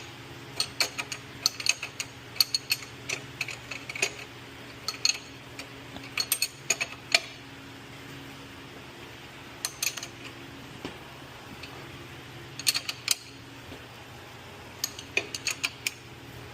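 Hand ratchet wrench with a 21 mm socket clicking in short bursts as it is swung back and forth, tightening a ball joint nut about half a turn at a time, with pauses of one to two seconds between bursts. A steady low hum underneath.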